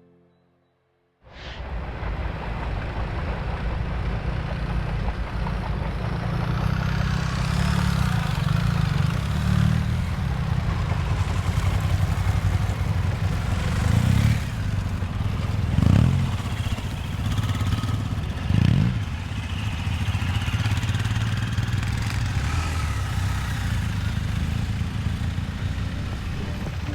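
Motorcycle running on the road with steady engine and wind noise, cutting in suddenly about a second in; the engine note swells briefly three times in the second half.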